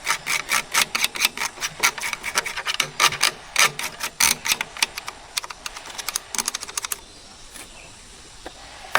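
Rapid, uneven run of sharp mechanical clicks, about five or six a second, like a hand tool or mechanism being worked; it stops about seven seconds in.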